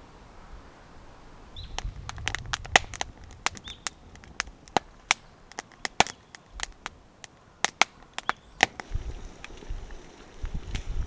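Wood fire crackling, with sharp irregular pops that start about two seconds in.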